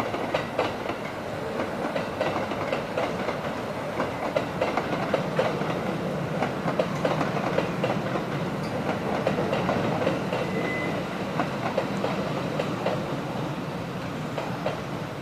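Red-and-white Kintetsu commuter electric train running through the station, its wheels clacking again and again over rail joints and points under a steady rumble, with a brief high-pitched squeal about eleven seconds in.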